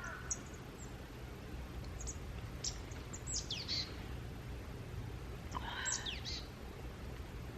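Wild birds calling in short, high chirps and quick downward whistles, with a louder, fuller call about five and a half seconds in, over a low steady background rumble.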